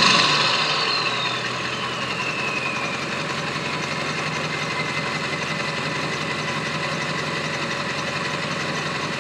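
2002 Ford F-250's 7.3 L Power Stroke turbodiesel V8, breathing through a 3-inch turbo-back exhaust, dropping back from a rev: the turbo whistle falls in pitch as the turbo spools down over the first few seconds. The engine then settles into a steady idle, with a faint whistle still audible.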